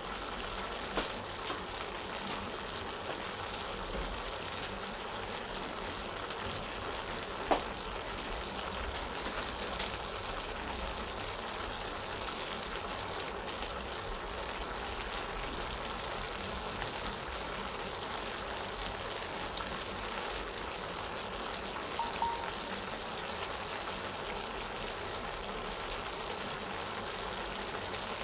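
Sautéed cabbage, carrots and chicken sizzling steadily in a steel pan, an even hiss with a few sharp clicks, the loudest about seven and a half seconds in.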